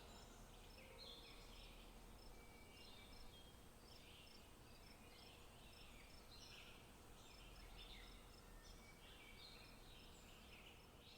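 Faint birdsong: short chirps and calls, scattered and repeating, over a low hiss.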